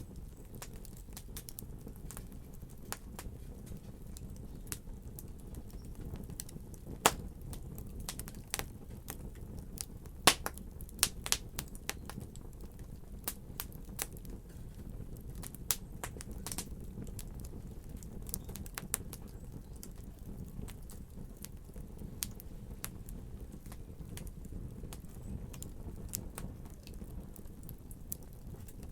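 Wood fire burning in a fireplace: irregular sharp crackles and pops over a steady low rumble of the flames, with the loudest pops about 7 seconds in and a cluster between 10 and 12 seconds.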